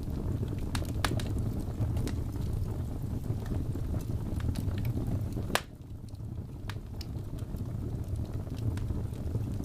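Wood fire burning in a fireplace: a steady low rumble of flames with scattered crackles and pops, and one sharper pop a little past halfway, after which it is briefly quieter.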